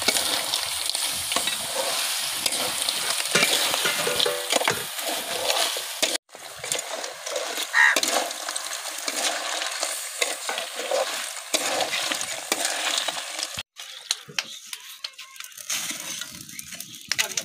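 Snails in their shells frying and sizzling with spice masala in a blackened iron wok, stirred with a metal spatula that scrapes the pan and knocks the shells together in many sharp clicks. The sound breaks off for an instant twice, and after the second break the sizzle is quieter and thinner.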